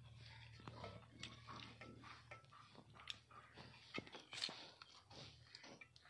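Faint chewing and eating sounds, with small irregular clicks and smacks, from a person eating chicken biryani. A low steady hum underneath stops about two and a half seconds in.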